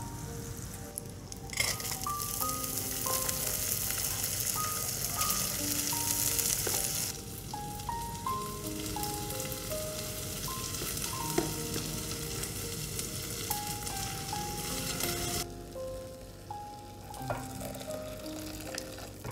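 Butter sizzling in a hot pot, then raw rice frying in the butter as it is stirred. The sizzle turns loud about a second in, eases about seven seconds in and mostly dies away near the end, under light background music of short plucked notes.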